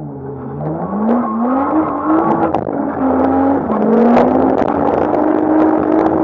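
Nissan Skyline R34's RB25 straight-six engine revving hard while drifting. The revs climb, dip briefly about three and a half seconds in, then rise again and hold high and steady, with sharp cracks throughout.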